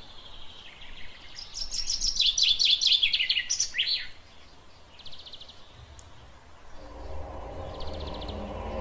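Birds chirping: a rapid run of loud high chirps from about a second in, then two short buzzy trills. Music fades back in near the end.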